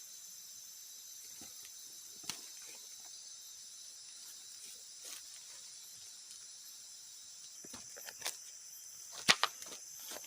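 Steady high-pitched chorus of forest insects such as crickets, with a few sharp clicks: one about two seconds in, a cluster around eight seconds, and the loudest pair about nine seconds in.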